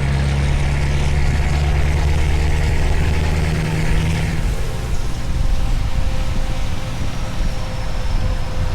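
Scania V8 truck engine with an open exhaust pipe, running with a deep, steady drone that fades about four seconds in, leaving a rougher rumble.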